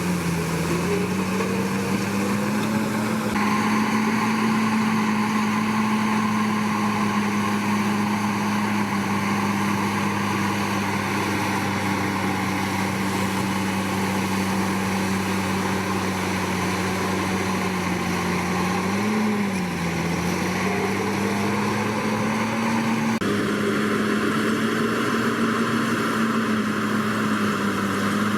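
Komatsu D61PX bulldozer's diesel engine running steadily at working revs. Its pitch sags briefly and recovers twice, once just after the start and again about two-thirds of the way through.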